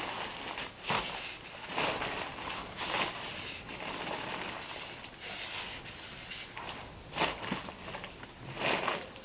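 Foam roller rolling wet varnish onto a wooden boat's transom: a run of soft, irregular wet hissing strokes, a few louder than the rest.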